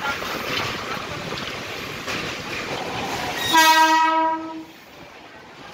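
Mumbai local electric train running noise over the rails, then a single horn blast about a second long a little past halfway, the loudest sound; after it the running noise is quieter.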